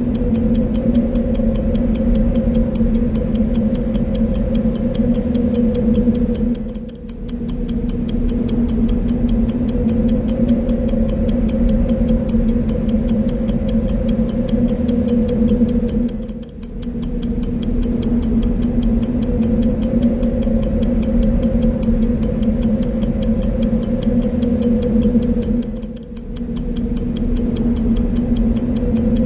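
Clock ticking steadily and evenly over a continuous bed of wind noise with a low, steady drone. The whole mix briefly dips in loudness about every nine or ten seconds.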